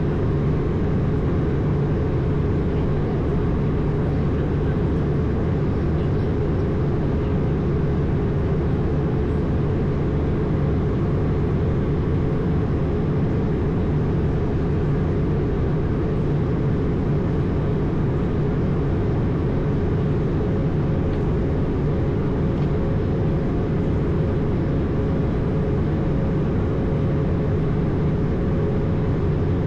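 Steady in-flight noise of an Airbus A220 heard from on board: the drone of its Pratt & Whitney geared turbofan engines mixed with airflow rush, heaviest in the low end, with a faint steady tone above it.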